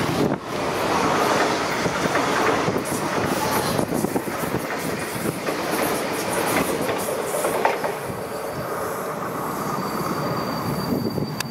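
Renfe Rodalies electric commuter train running along the platform, its wheels rumbling and clicking over the rail joints. Near the end a thin high wheel squeal comes in.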